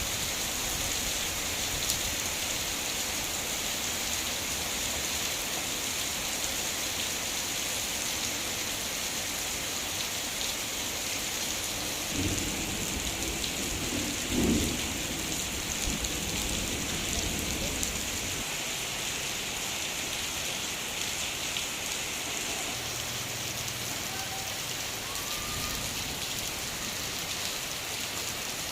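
Heavy rain falling steadily in a dense, even hiss. Around the middle, a low rumble swells for several seconds, with two louder peaks.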